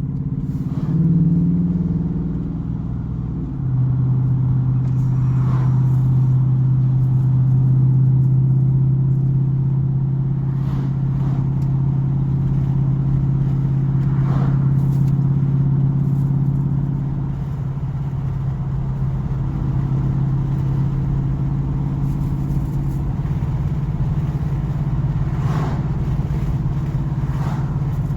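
2019 Dodge Charger R/T's 5.7-litre HEMI V8 exhaust, through Black Widow Neighborhater mufflers with the resonator deleted, droning steadily at a light cruise, heard inside the cabin with the windows partly down. The engine note rises briefly about a second in, then settles.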